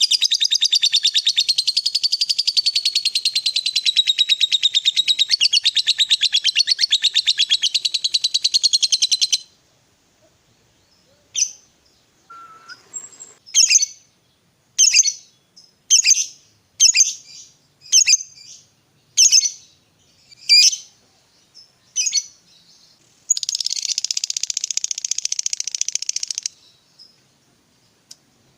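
Lovebird singing in fighter style: a long, rapid chattering trill (ngekek) of about nine seconds, then a run of about ten sharp single chirps about a second apart (ngetik), then another rapid trill of about three seconds.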